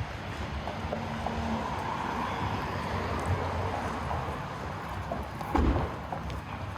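Street ambience with a car passing; its tyre and engine noise swells and then fades. There is a short low thump about five and a half seconds in.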